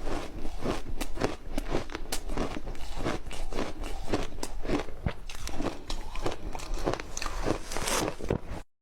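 Ice with matcha being bitten and chewed close to the microphone: a dense run of sharp crunches and cracks, cutting off suddenly near the end.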